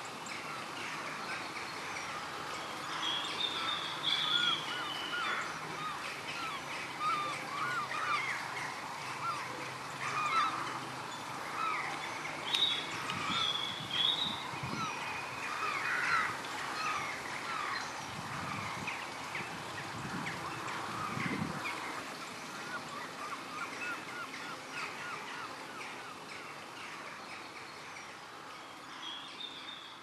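A flock of birds calling continually, many short overlapping calls and chatter.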